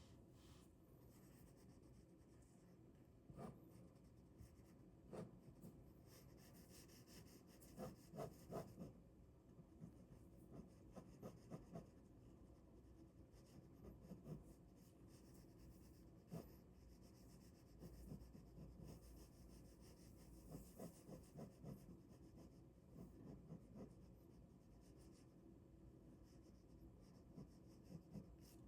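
Ballpoint pen drawing on paper: faint, irregular scratching strokes that come in short clusters.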